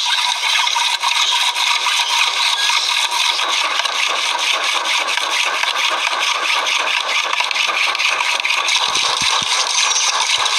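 Fast, regular scraping strokes, several a second, keeping on without a break, with a few low thumps a little before the end.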